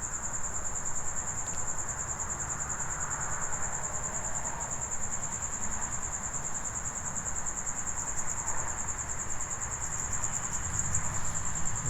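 Crickets trilling in a steady, high, unbroken chorus.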